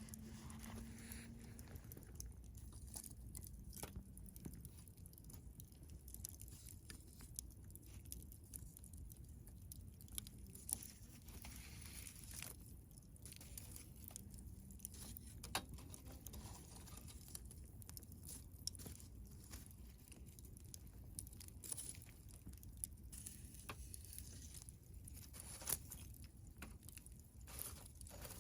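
Wood campfire crackling: irregular small pops and snaps, with a few sharper cracks standing out, over a low steady hiss.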